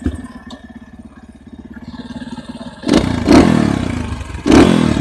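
Enduro motorcycle engine running low, then revved sharply twice, about three and four and a half seconds in.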